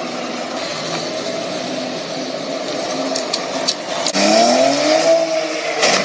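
Car engine accelerating over steady road and wind noise. About four seconds in, its pitch rises and then holds, with a few sharp clicks just before.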